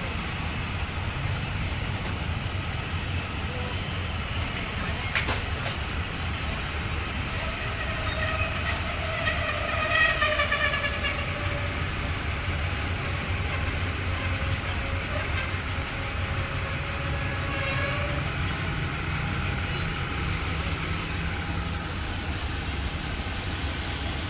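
Diesel train at a station, with a steady low engine rumble. A pitched tone with a slight downward glide sounds for a few seconds about ten seconds in, and more faintly again later.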